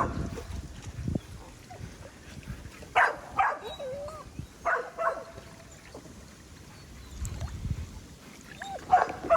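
A dog giving short, sharp barks in three quick pairs, with a brief whine after the first pair, over low sloshing of pool water.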